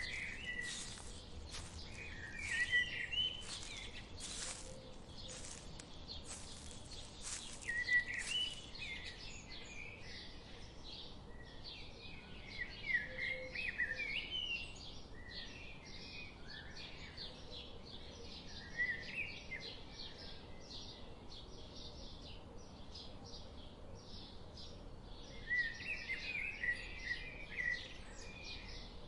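Songbirds chirping in short bursts every few seconds over a steady hiss of a forest stream, with many faint ticks through it.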